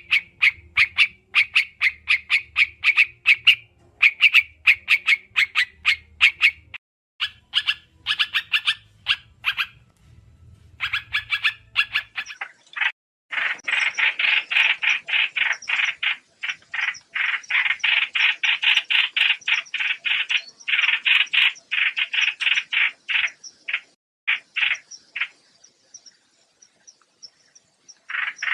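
White-eye (trao trảo) calling in fast runs of short, dry chips, with brief pauses between runs. The calls are densest and most continuous through the middle, then thin out to short bursts near the end.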